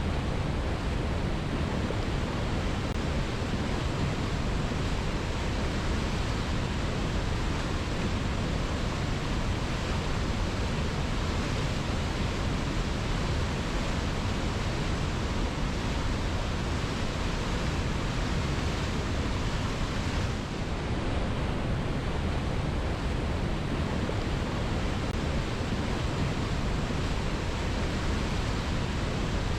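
Waterfall pouring onto rocks: a steady, dense rush of falling water, heavy in the low end.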